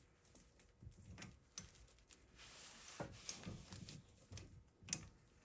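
Near silence with a few faint clicks and light knocks from hand tools at a brake caliper, the clearest about three and five seconds in.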